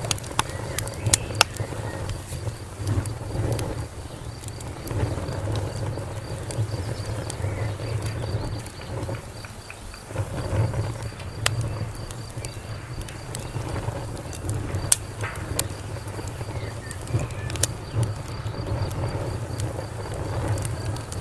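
Wood fire crackling: irregular sharp pops and snaps over a steady low rumble of burning, with a few louder pops about a second in, around 11 and 15 seconds, and near 17.5 seconds.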